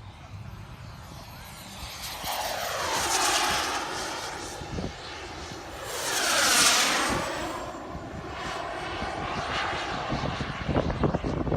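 Turbine-powered radio-controlled model jet flying by, its jet noise swelling as it approaches and passes, loudest about six and a half seconds in, with a high thin turbine whine that falls in pitch as it goes past.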